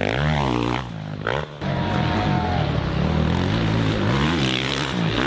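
Motocross bike engine revving up and down over and over as it is ridden, with a brief drop in power about a second in.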